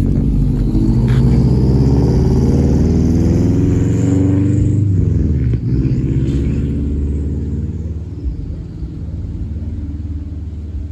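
A car engine accelerating, its pitch rising for about four seconds, then dropping and settling into a lower, steady rumble.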